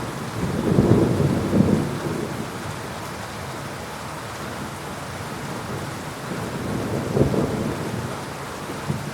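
Thunderstorm with steady heavy rain and rumbling thunder. Two low peals stand out, one in the first couple of seconds and another about seven seconds in.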